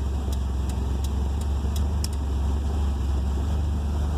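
1978 Fiat 124 Spider's 1.8-litre twin-cam four-cylinder idling steadily, warm after a drive. Over it, the turn-signal flasher clicks about three times a second through the first half.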